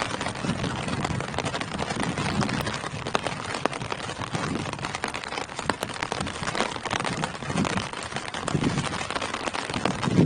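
Steady rain falling on tree leaves: a dense, even hiss with many separate drop hits.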